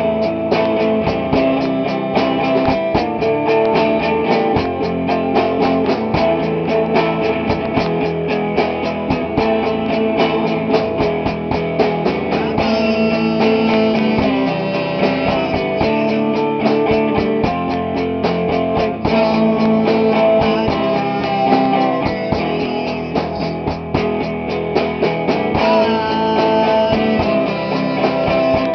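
Rock band playing live at rehearsal: strummed electric guitars over a drum kit keeping a fast, steady beat.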